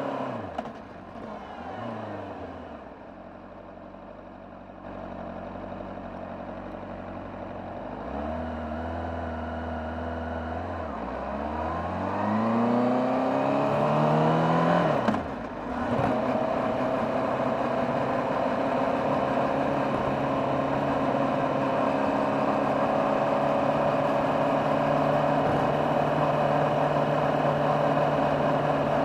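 Honda CBR600RR inline-four with its stock exhaust, heard from on board. The revs drop at the start and stay low for several seconds, then climb steeply under acceleration. A quick break about halfway through, like a gear change, is followed by steady running at constant revs.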